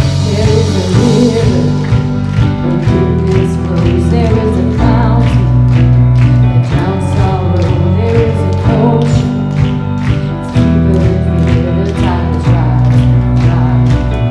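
Live Christian worship band playing a song with singing over a steady drumbeat and a held bass line.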